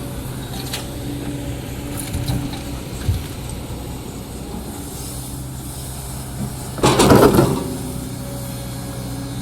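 Diesel excavator engine running steadily, with a few light clicks and knocks. About seven seconds in comes one loud, harsh burst lasting under a second.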